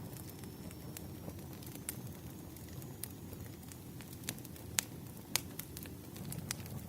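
Wood fire crackling: burning logs give a low steady rumble, with scattered sharp pops and snaps. Two louder pops come about five seconds in.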